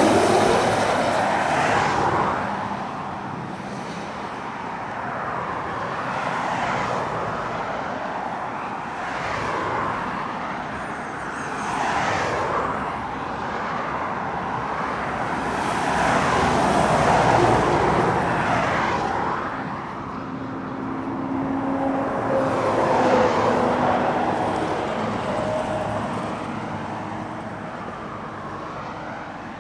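Lorries and other road traffic passing one after another on an uphill stretch, engines working on the climb. One vehicle goes by loudly right at the start, then several more swell up and die away, and the sound fades near the end.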